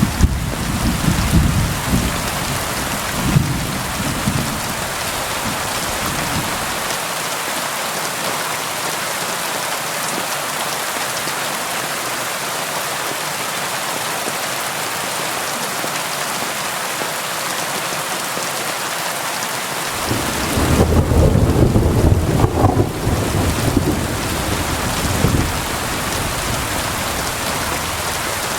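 Steady rain hiss with thunder rolling in the distance: a low rumble fading out over the first several seconds, then another rumble starting about twenty seconds in and dying away after several seconds.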